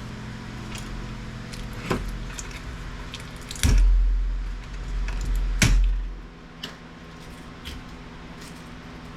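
Small electronic scrap parts being handled and set down: a few sharp clicks and knocks, two heavier knocks with a thud about four and six seconds in, over a steady low hum.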